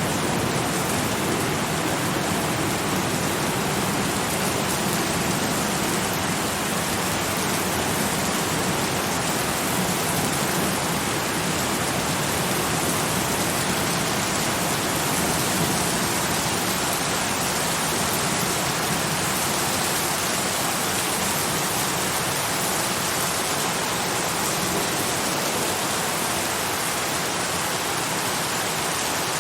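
Steady, even rain falling and hitting a surface, a dense hiss with no breaks.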